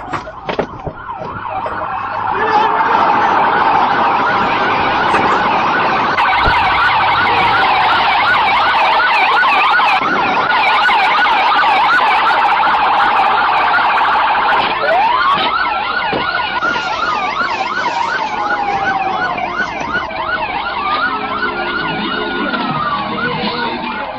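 Police car sirens sounding together: a fast yelp warbling several times a second throughout, louder after about two seconds, with a slow wail rising and falling over it about halfway through and again near the end.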